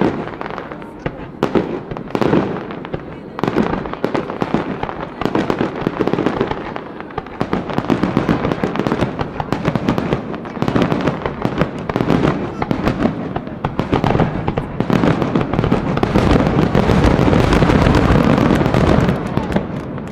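A dense run of sharp cracks and pops, packing into an almost continuous crackle in the last few seconds before it drops away.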